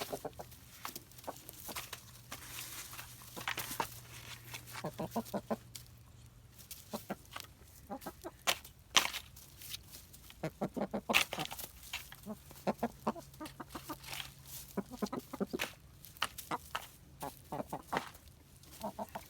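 Buff Orpington chickens clucking in short calls, mixed with many sharp clicks and taps scattered throughout.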